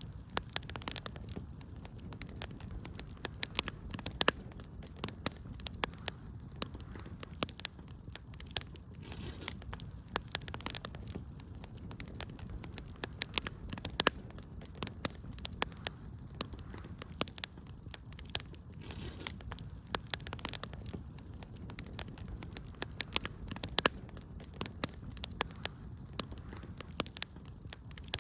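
Burning wood fire crackling, with irregular sharp pops and snaps over a low, steady rumble of the flames.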